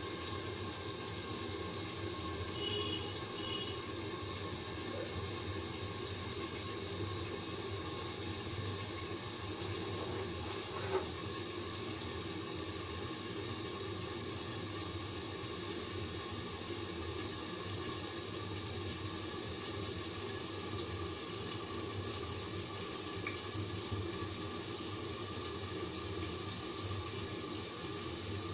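Chopped eggplant frying in spiced oil in a pan, a steady sizzle, with one sharp click about eleven seconds in.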